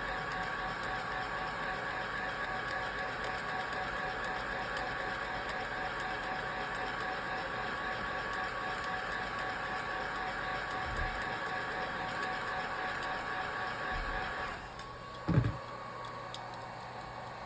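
A small electric motor running steadily with a whine, switched off near the end, followed by a single low thump.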